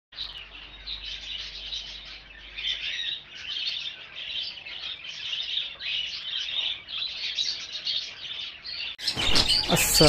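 A flock of small birds chirping and twittering continuously, many high calls overlapping. About nine seconds in it turns louder and harsher.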